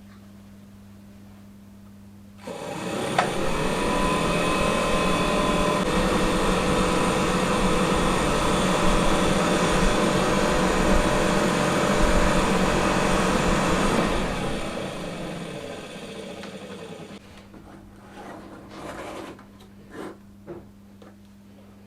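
Smiths heater blower fan motor switched on and running steadily with a whirring rush of air. It is switched off a few seconds before the end and winds down over about three seconds, followed by a few light clicks.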